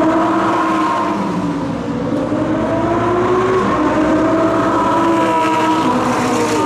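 Several high-performance car engines at full throttle as supercars pass at speed on a racetrack, their pitch climbing and then dropping back several times as they shift up through the gears.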